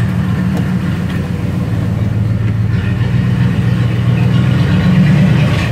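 1990 Dodge D150's 318 (5.2-litre V8) throttle-body engine idling steadily, running clean without knocks or ticking.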